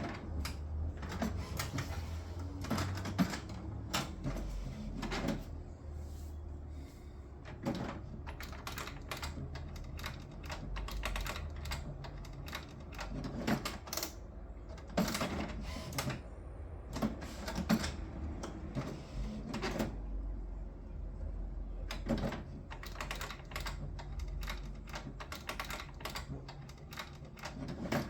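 HP Smart Tank 581 inkjet printer running with an abnormal mechanical noise: irregular clicks and knocks, some louder than others, over a steady low hum.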